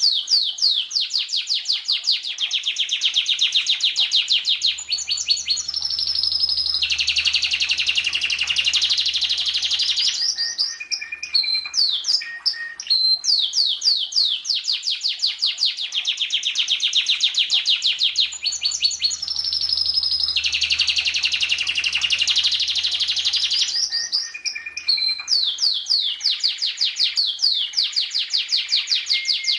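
Domestic canary singing: long rapid trills of fast down-sweeping notes alternating with rolling, buzzy passages. The same song phrase comes round again about every 13 seconds.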